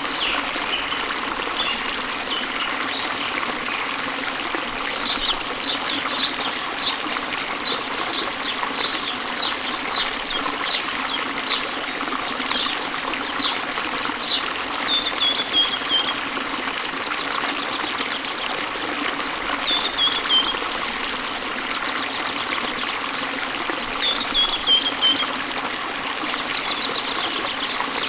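Waterfall running steadily, with birds singing over it: a run of quick, short chirps, then a short falling phrase three times.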